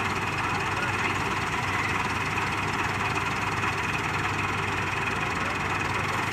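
Tractor diesel engine running steadily with an even, unchanging hum.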